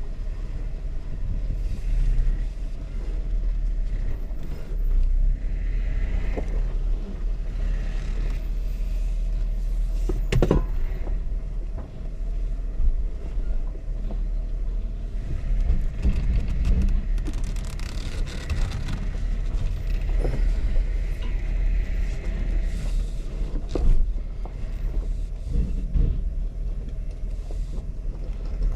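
Jeep crawling slowly over rocks on a steep off-road trail: a steady low engine rumble, with a sharp knock about a third of the way through and a stretch of crunching in the second half.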